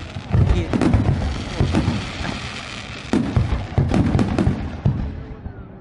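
Many aerial firework shells bursting in quick succession, the bangs overlapping. There is a lull about two seconds in, a second volley about three seconds in, and then the bursts die down near the end.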